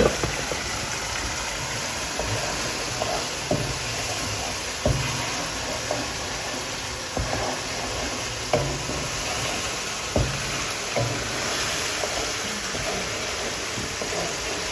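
Onion-tomato masala frying in oil in a pan, a steady sizzle, with light knocks and taps scattered through it.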